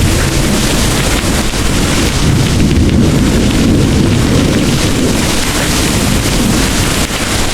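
Heavy rain pouring steadily under a deep, continuous rumble of thunder.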